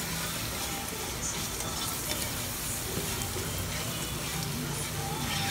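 Bacon and onion frying in butter in a nonstick pot, a steady sizzle with fine crackling, as a spatula stirs through them.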